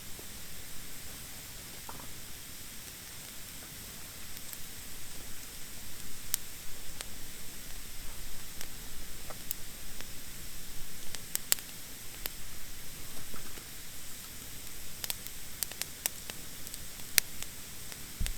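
Campfire of damp, unseasoned wood burning in a fire pit: a steady hiss with scattered sharp pops and crackles, coming more often in the second half.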